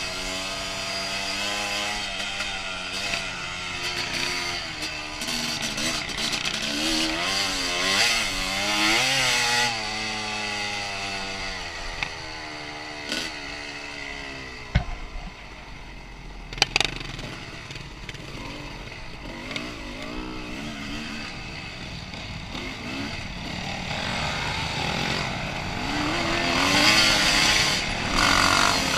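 Honda CR250's single-cylinder two-stroke engine on the move, its revs rising and falling again and again. It runs lower and quieter through the middle, with a couple of sharp knocks just past halfway, then revs up louder near the end.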